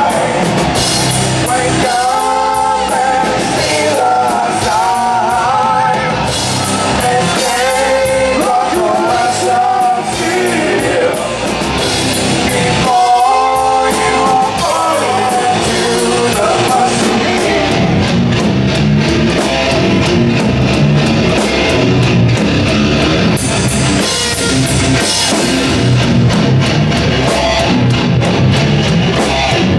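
Heavy rock band playing live: electric guitars and a drum kit with a sung vocal line, turning to guitar and drums without the vocal from about halfway through.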